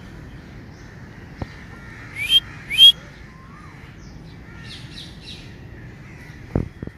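Birds calling: two loud, harsh calls, each rising in pitch, about half a second apart near the middle, among fainter scattered chirps. A short low thump comes near the end.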